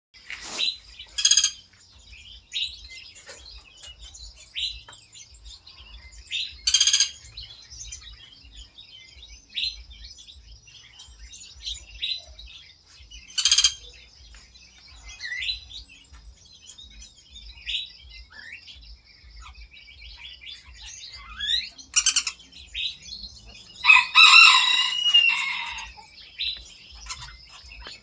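Small aviary birds chirping and calling: many short, sharp high calls scattered throughout, a few of them loud, and a longer warbling call about 24 seconds in.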